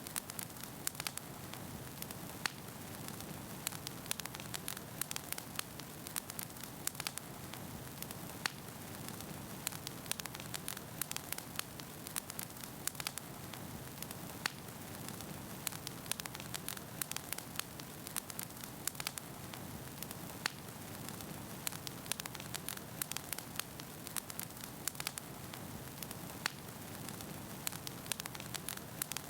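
Wood fire burning in a fireplace: a steady low rush of flame with frequent, irregular crackles and pops from the burning logs.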